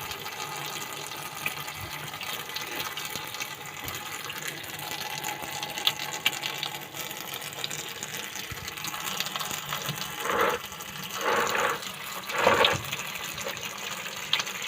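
Water running steadily into a washing machine tub as it is filled to test a repair, with three short louder bursts near the end.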